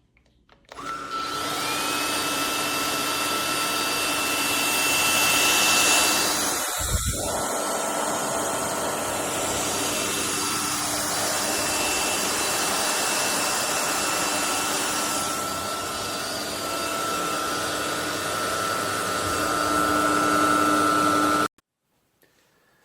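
Vistefly V15s Max cordless stick vacuum switched on less than a second in: its motor whine glides up as it spins up, then runs steadily over a loud rush of air. There is a brief low thump about seven seconds in, and the vacuum switches off abruptly near the end.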